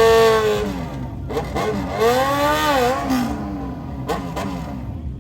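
Car engine revving twice, its pitch rising and falling each time, over a steady low idle rumble.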